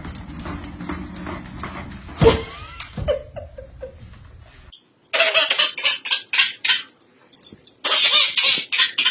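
A small child laughing hard in quick bursts, two runs of it in the second half. Before it come a couple of knocks and a brief squeak over background rumble.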